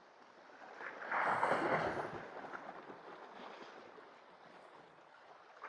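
Sea wave washing up against shore rocks: a rush of water that swells about a second in, then drains away over the next few seconds.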